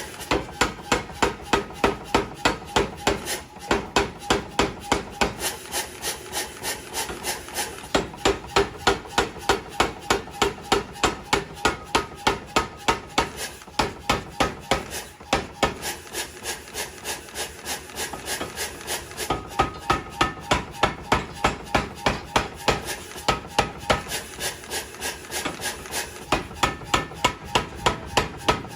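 Forging hammer striking in a steady rhythm of about three blows a second, with a few short breaks.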